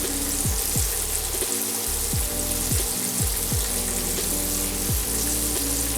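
Chicken strips deep-frying in hot oil, a steady sizzle, under background music with a beat of falling bass thumps.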